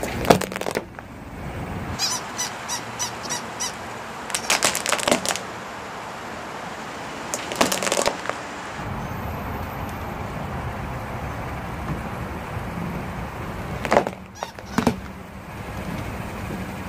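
Plastic toy dogs cracking and crunching under a truck tire in several separate bursts, one a quick run of about six clicks, over a steady low rumble.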